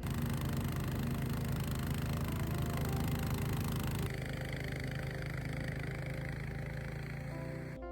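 A motor running steadily. It starts abruptly, changes about four seconds in, and cuts off abruptly just before the end.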